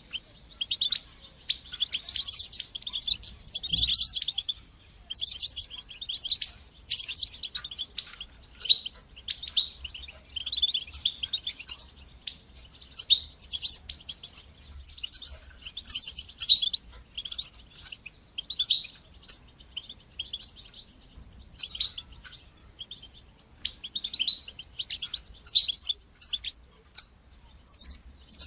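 European goldfinch singing: rapid twittering phrases of chirps and trills, coming in bursts with short pauses between them.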